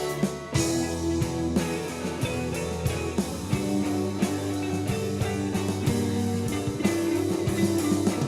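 A rock band playing live, with electric guitars and drums in a psychedelic alternative-rock style.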